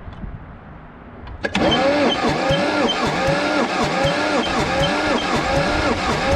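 Electric starter engages about a second and a half in and cranks the Allis-Chalmers 920's twin-cylinder Lombardini diesel, its whine rising and falling in a steady, labouring rhythm without the engine firing. It is not cranking fast enough to bleed the fuel through and start.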